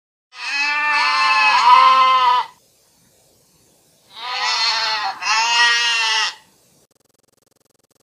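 Goat bleating: one long wavering bleat of about two seconds, then after a short pause two more bleats close together.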